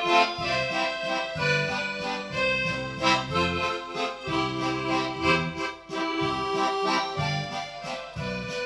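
Accordion music with a melody over a bass line that changes chord about every half second to second.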